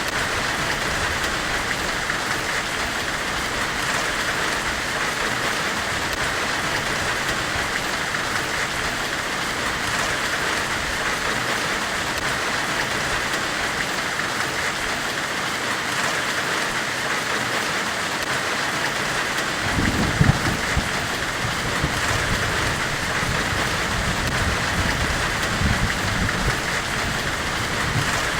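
Steady, even white-noise hiss of the kind sold as forge-weld hiss, with no pauses. Low rumbles swell in about twenty seconds in and again a few seconds later.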